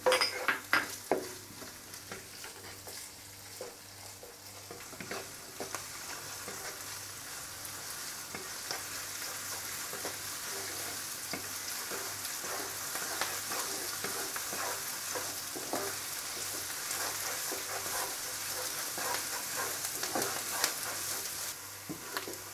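Chopped onion and ginger-garlic paste sizzling in hot oil in a non-stick wok, stirred with a wooden spatula that scrapes and taps against the pan. The sizzle grows gradually louder as the frying goes on.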